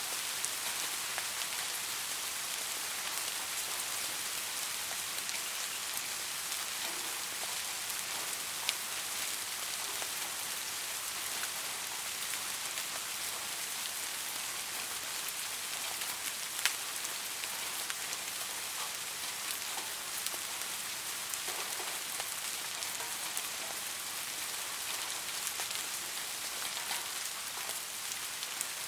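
Steady rain falling, an even hiss with scattered individual drops ticking sharply on a hard surface.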